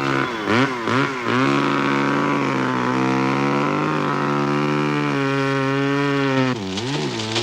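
Chainsaw running at a steady high note, its pitch dipping and recovering several times near the start and near the end as it bogs under load.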